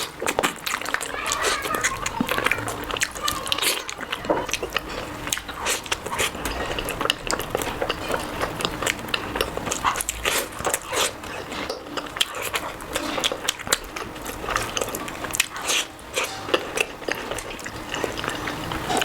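Close-miked eating: wet, irregular chewing and lip-smacking clicks as curry, rice and naan are eaten by mouth.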